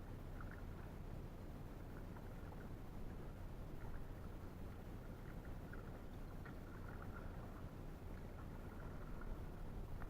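Water around a Gumotex Scout inflatable canoe on a river, over a steady low rumble, with scattered faint short high ticks.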